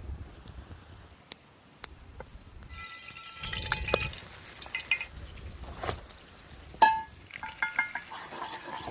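Utensils clinking against dishes or cookware: a few light clicks, then a run of short ringing clinks, the sharpest about seven seconds in.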